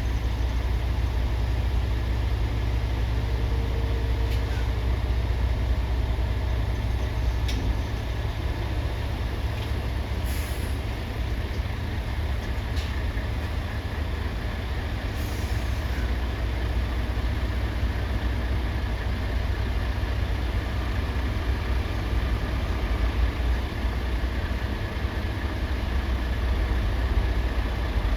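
Low, steady rumble of heavy diesel trucks in a port, with a few short air-brake hisses, the clearest about ten and fifteen seconds in.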